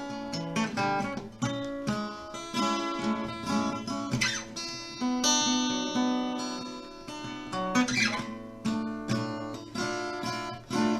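Acoustic guitar playing an instrumental break in a song, with picked notes ringing out. Strummed chords come about four and eight seconds in.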